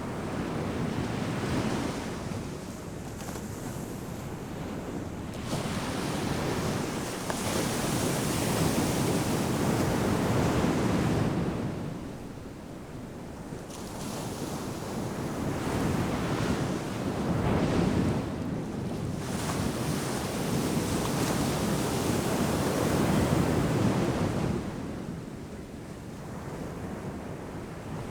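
Atlantic ocean surf breaking and washing up the sand in repeated swells, each surge building to a loud rush of foam before falling back to a quieter lull, with some wind noise on the microphone.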